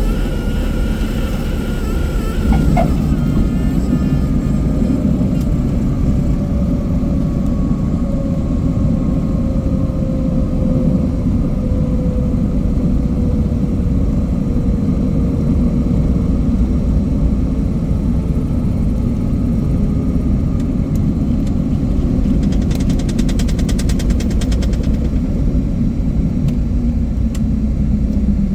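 Single-engine Cessna 177 Cardinal's piston engine and propeller running with a steady low drone, its note slowly falling in pitch through most of the stretch. A brief rapid high clicking comes in a little after twenty seconds.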